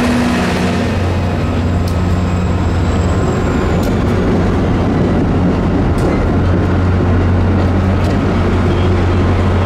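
Train running close by, a loud steady low drone with rumbling noise over it.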